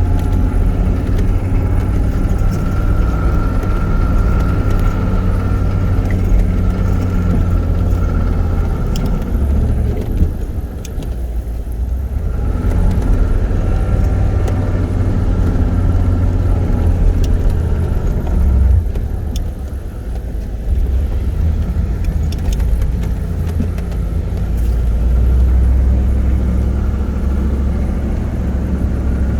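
The 6.5-litre turbo diesel of a 1996 GMC K3500 plow truck running under load while pushing snow, a steady low drone with faint light rattles. The engine note eases off briefly twice, about a third and two-thirds of the way through.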